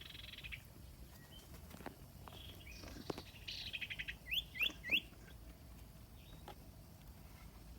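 A small bird calling: short buzzy trills, then three quick rising notes about four to five seconds in, the loudest of the calls. A few faint clicks come in between.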